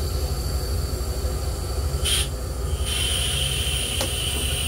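Long Island Rail Road M3 railcar running, heard as a steady low rumble inside its lavatory. A short hiss comes about two seconds in, a steady high whine starts about a second later, and there is a faint click near the end.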